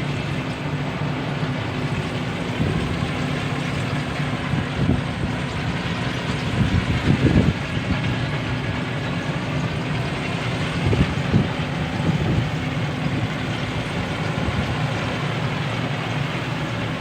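Rice combine harvester's Hino diesel engine running steadily under load, with its threshing machinery running. A few heavier knocks come about seven and eleven seconds in.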